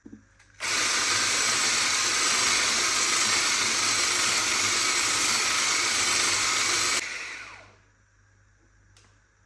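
A small electric appliance motor switched on, running at a steady speed for about six seconds, then switched off and winding down over about a second.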